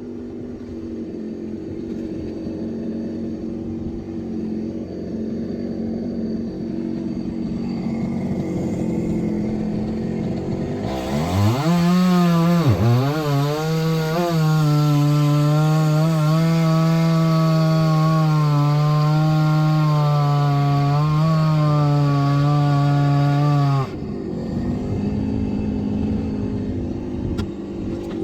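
A two-stroke chainsaw revs up sharply about eleven seconds in and runs at a high, steady throttle for about twelve seconds, then cuts off abruptly. Before and after it, a lower engine idles steadily.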